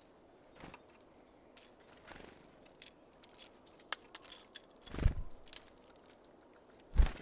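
Small birds at a feeder: scattered light taps and clicks of birds working at sunflower seeds. Two dull, louder thumps come about two seconds apart near the end.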